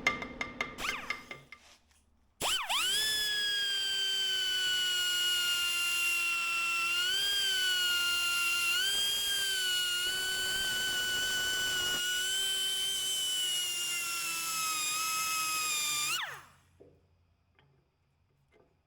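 A quick clatter of metal clicks, then a handheld electric power drill spins up and runs at a steady high whine for about fourteen seconds. Its pitch shifts briefly twice as it takes load, then it winds down and stops.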